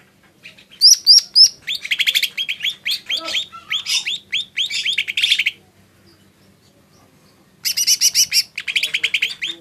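Cucak ijo mini (lesser green leafbird) singing: rapid strings of sharp, high chirps and short whistled notes. The song comes in two bursts, the first starting about a second in and lasting some five seconds, the second starting near the end after a pause of about two seconds.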